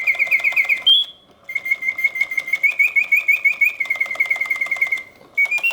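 Vintage Reuge singing bird cage automaton singing: a bellows-driven mechanical whistle trills in rapid chirps. It pauses briefly about a second in and again near the end, with faint clicking from the mechanism.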